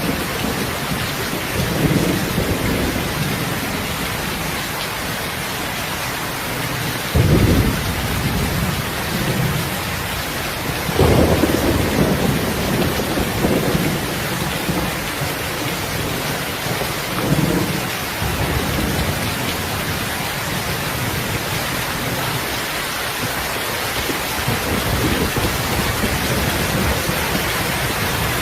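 Steady rain falling, with short low rumbles coming and going, the loudest about seven and eleven seconds in.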